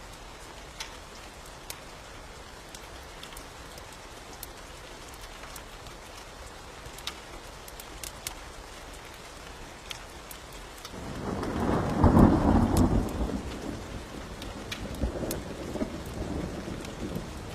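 Steady rain with scattered sharp ticks. About eleven seconds in, a thunderclap rumbles in, loudest about a second later, then keeps rolling more quietly.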